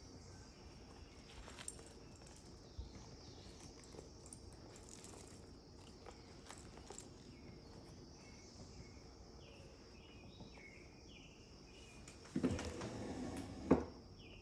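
Steady high insect chirring with a few short chirps over it. Near the end comes about a second and a half of louder rustling of paper as the journal is handled, closing with a sharp knock.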